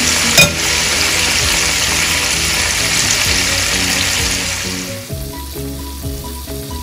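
Chicken drumsticks sizzling as they shallow-fry in a pan of oil, with a sharp click just after the start. The sizzle fades out about five seconds in, leaving background music.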